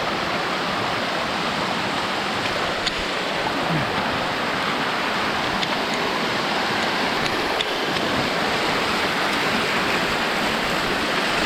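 Steady rush of falling water from a nearby waterfall, even and unbroken, with a few faint ticks over it.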